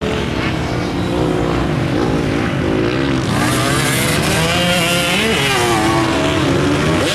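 Motocross bike engine running under throttle, its pitch rising and falling repeatedly as the rider works the throttle and gears.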